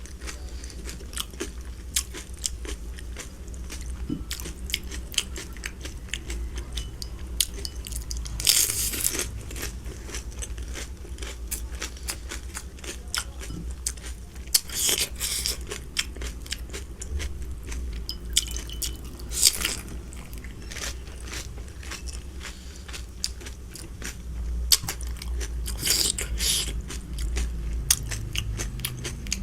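Close-miked chewing and crunching of food: steady small wet mouth clicks, with a few louder crunching bites spread through, about four in all.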